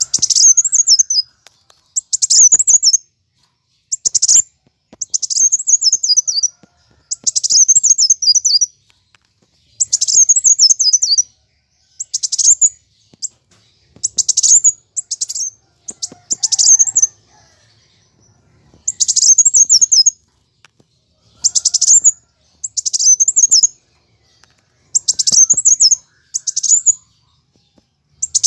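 Kolibri wulung sunbird singing in fighting mood: rapid, high-pitched chattering phrases about a second long, repeated every second or two with short silent gaps.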